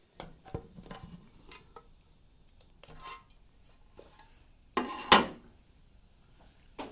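Scattered light clicks, taps and short rubs of tools and objects being handled, with a louder clatter about five seconds in.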